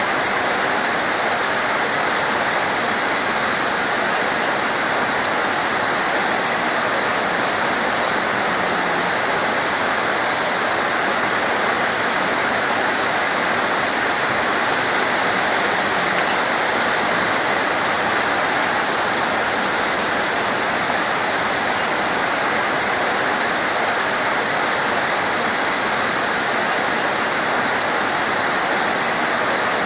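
Heavy torrential rain falling in a steady, dense hiss, with two faint sharp ticks, one about five seconds in and one near the end.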